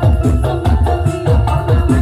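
Loud music with a heavy, pulsing bass beat and a melody line, played through a large carnival sound system (sound horeg).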